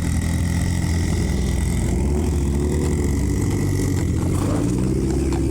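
Car engine running at a low, steady idle with a deep drone; its pitch rises and falls slightly near the end.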